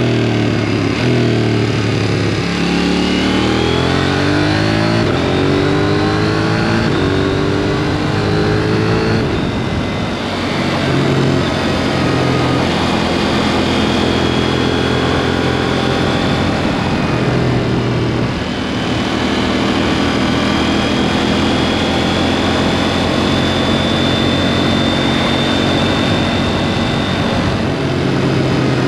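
KTM 790 Duke's parallel-twin engine running through a SpeedPro Cobra SPX aftermarket exhaust under way. It revs up through the gears in rising steps, drops back off the throttle twice, and pulls again.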